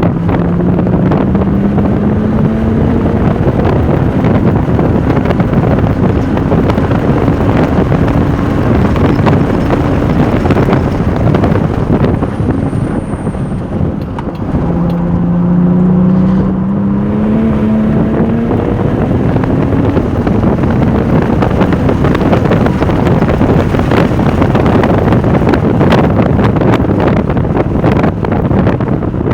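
Porsche 996 Turbo's twin-turbo flat-six driven hard on a race track, with wind and road noise over it. The engine note climbs under acceleration, eases off briefly about halfway through, then climbs again.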